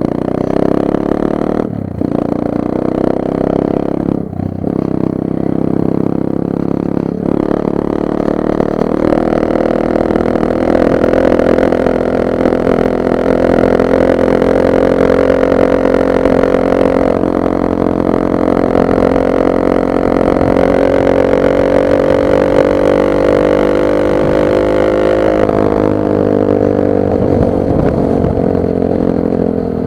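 Nitro Sky 125cc pit bike's single-cylinder four-stroke engine being ridden. The engine note breaks off briefly three times in the first several seconds as the gears are shifted up. Then it holds a long pull with slowly rising pitch, and falls away near the end as the throttle closes.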